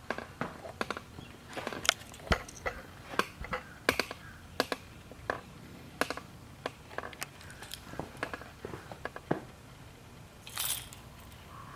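Irregular sharp clicks and light knocks of parts and tools being handled, with a brief scraping rustle near the end.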